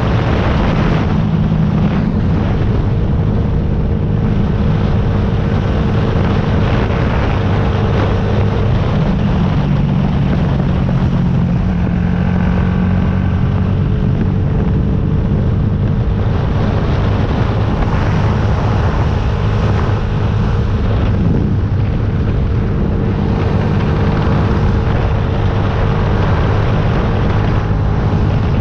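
Yamaha YZF-R125's 125 cc single-cylinder four-stroke engine running under way at a fairly steady pace, its pitch shifting slightly now and then, with wind rushing over the microphone.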